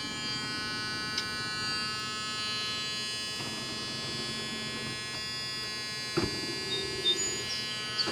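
Electric power-seat motor of a 1979 Ford Thunderbird whining steadily as it drives the seat, its tone shifting about three and a half seconds in, with a click about six seconds in.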